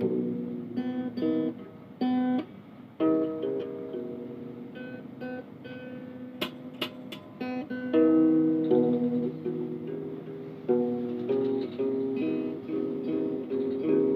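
Guitar music: plucked and strummed notes, a few sharp clicks about six to seven seconds in.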